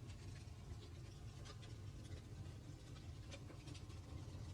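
Faint fireplace crackling: scattered small pops and ticks over a low steady hum.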